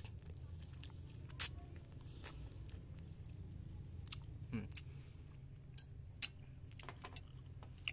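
A person chewing a mouthful of soft, springy instant fried noodles, with a few short sharp clicks over a steady low hum.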